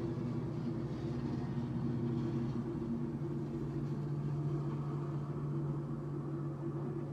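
Diesel trains passing on the line: a steady low engine drone over rolling noise, with the deeper tone growing stronger about three seconds in.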